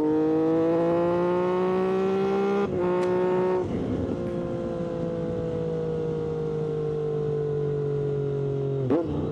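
Triumph Street Triple 765RS three-cylinder engine through an SC-Project exhaust, pulling in gear with the revs climbing and a quick upshift about three seconds in. Off the throttle it crackles with exhaust pops, then the revs fall slowly as the bike slows, with a quick downshift near the end.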